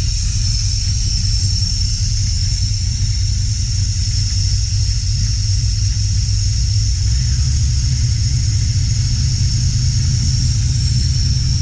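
1968 Camaro SS's 350 V8 with FiTech throttle-body fuel injection idling steadily just after being started, with a steady high whine over the engine sound.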